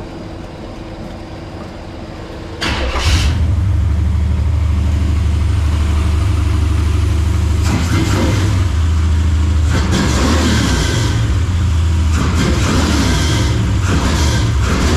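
Chevrolet Malibu's Blueprint 383 small-block V8 firing up about two and a half seconds in, then running loud and deep through a 3-inch exhaust with Flowmaster mufflers. Its throttle is blipped several times.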